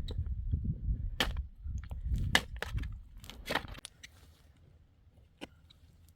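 A handful of sharp knocks and cracks over a low rumble, cutting off abruptly about four seconds in.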